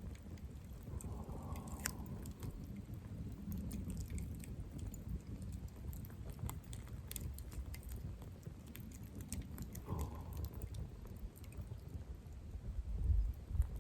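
Campfire burning, the wood crackling with scattered sharp pops over a low steady rumble.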